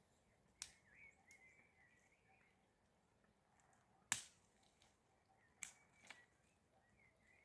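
Near silence broken by five short sharp clicks or knocks, the loudest about four seconds in.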